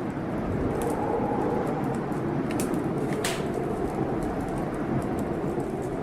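Wood fire in a fireplace crackling, with a few sharp pops, the loudest about three seconds in, over a steady low roar of a storm.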